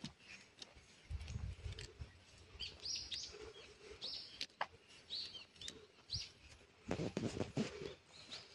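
Small birds chirping: several short, high calls in the middle of the stretch. Near the end there is a louder spell of scuffing and knocks.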